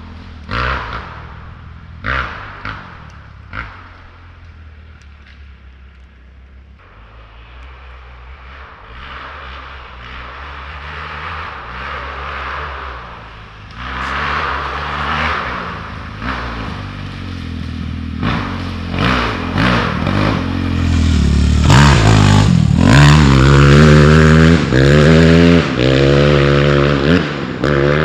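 Suzuki RM-Z 250 dirt bike engine running on a trail, with a few sharp knocks and clatters in the first few seconds. It grows louder through the middle and, past the halfway point, revs up and down again and again, loudest near the end.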